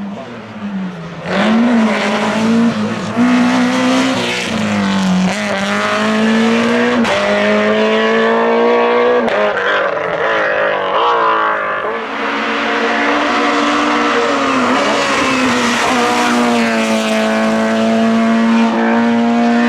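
Naturally aspirated Group F2000 rally car engine run hard at high revs. Its pitch climbs and drops repeatedly through gear changes and lifts, then holds a long high note near the end.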